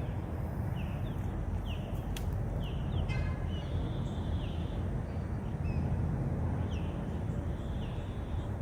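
Birds calling outdoors: repeated short, downward-sliding chirps, with one harsher, buzzier call about three seconds in, over a steady low rumble.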